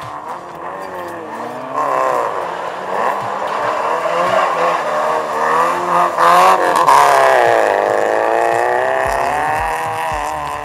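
Rally hatchback's engine revving hard, rising and falling in pitch as the car accelerates, lifts off and changes gear through a tight tyre chicane. It grows louder as the car nears, is loudest about seven seconds in, then eases off slightly.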